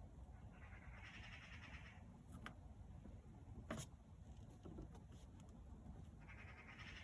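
Faint outdoor ambience with low rumble: a pulsed, trilling animal call about a second long sounds twice, near the start and near the end, with two sharp clicks in between.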